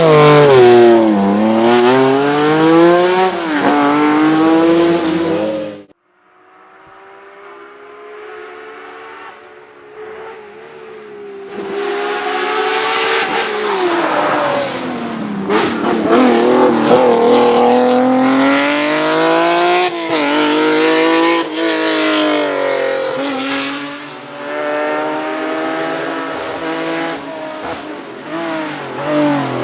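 Lancia Stratos HF's Ferrari V6 engine revving hard, its pitch rising and falling again and again through the gears. The sound cuts off abruptly about six seconds in, returns faint and swells back up, then revs loudly again through the rest.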